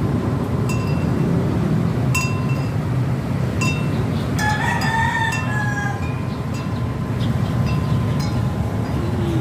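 Bird calls: a short, high chirp repeated about every second and a half, and one longer call lasting about a second and a half halfway through, over a steady low rumble.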